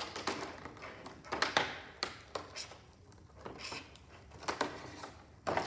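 Handling noise as small plastic tools and packaging from a fossil-dig kit are taken out: irregular clicks, taps and rustling, with a louder knock near the end.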